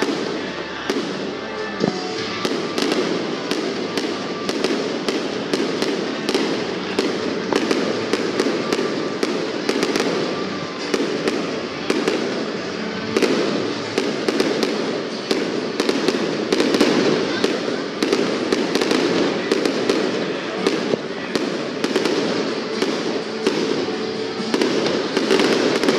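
Aerial fireworks display bursting in rapid succession, about two sharp bangs and crackles a second, steady and unbroken.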